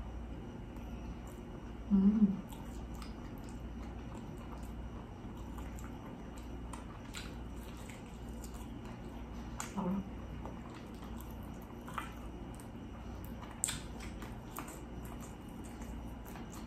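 A person chewing while eating chicken wings, with scattered wet mouth clicks. A brief louder low sound comes about two seconds in and again near ten seconds.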